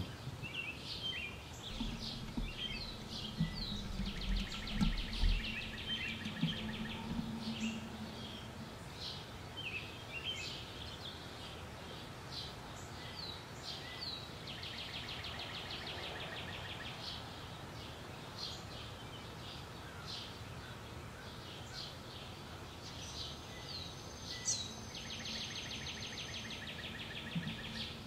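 Wild birds chirping: many short high chirps, with a fast trill of rapidly repeated notes three times, each lasting a few seconds.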